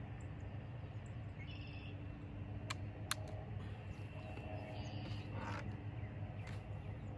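Outdoor ambience over a steady low hum, with short bird calls twice and two sharp clicks about three seconds in.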